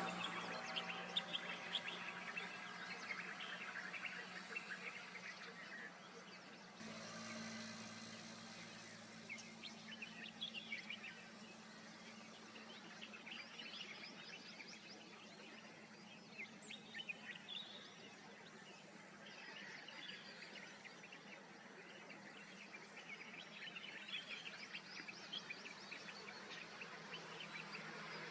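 Many small birds chirping and twittering in short, scattered calls, over a steady low hum; the background changes abruptly about seven seconds in.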